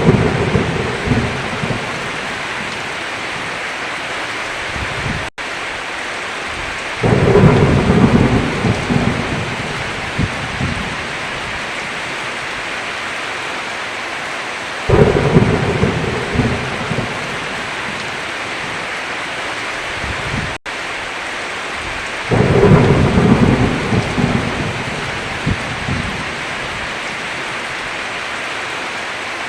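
Heavy rain falling steadily, with thunder rumbling in loud claps about every seven or eight seconds, each fading over a few seconds. The sound cuts out for an instant twice.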